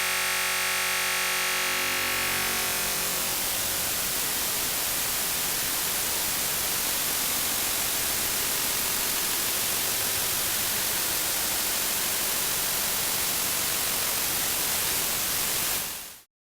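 Synthesized tone from an Absynth 5 FM oscillator. It starts as a buzzy pitched tone with many overtones and, within about three seconds, dissolves into a steady white-noise hiss with no audible pitch. The hiss cuts off quickly near the end.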